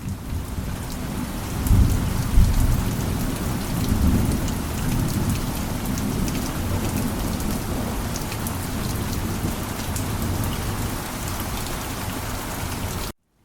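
Steady heavy rain falling with pattering drops, and a low rumble of thunder about two seconds in. The rain fades in at the start and cuts off to silence just before the end.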